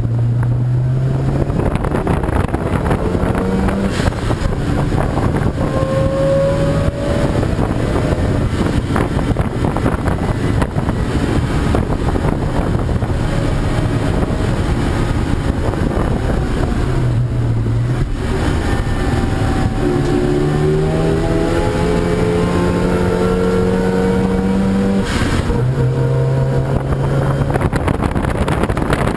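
Race car engines running hard on a circuit during qualifying. The engine notes climb and drop again and again as the cars accelerate and shift, with one long climbing run about two-thirds of the way through.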